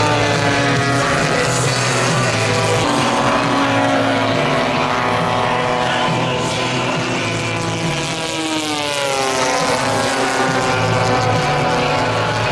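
Propeller engines of a giant-scale radio-control warbird model in flight, a steady drone of several pitched tones. The pitch sags and then recovers about eight seconds in.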